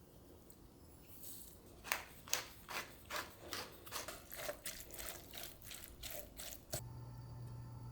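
A rapid run of ratcheting clicks, about two to three a second for some five seconds, from a hand-worked kitchen mechanism. Then a single sharper click, and a steady low hum starts.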